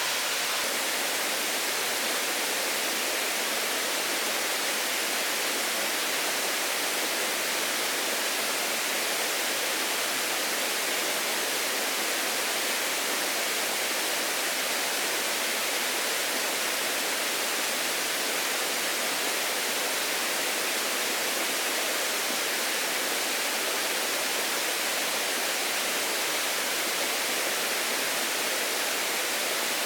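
A steady, even hiss that does not change or break, with no separate sounds standing out.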